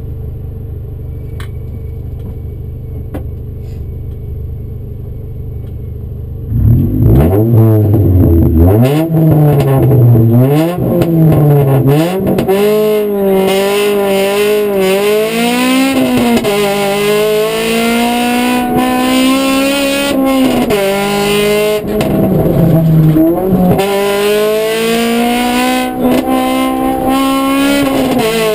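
Honda Civic rally car's engine heard from inside the cabin. It holds steady revs on the start line, then about six and a half seconds in the car launches and accelerates hard, much louder, the revs climbing and dropping back with each gear change.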